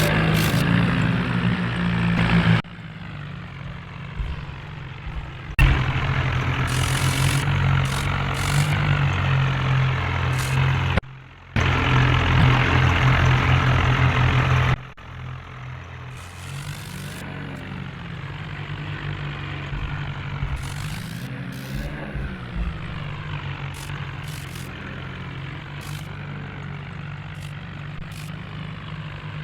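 Tractor diesel engines running, with abrupt jumps in loudness several times in the first half; in the quieter second half the engine pitch slowly rises and falls.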